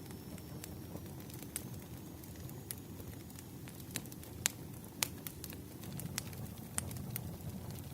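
Wood fire in a fireplace crackling, with scattered sharp pops over a steady low rumble of flame; a few louder pops come near the middle. A faint thin whistle sounds high up in the first half.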